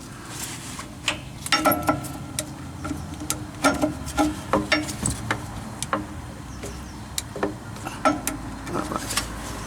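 Hand-pumped grease gun being worked on a kingpin zerk fitting: a run of sharp metallic clicks and clacks at irregular spacing, some in quick pairs, as the lever is stroked.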